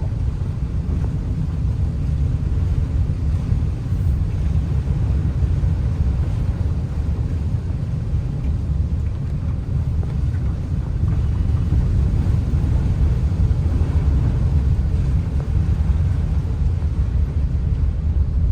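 Steady low rumble of a vehicle on the move, with no let-up.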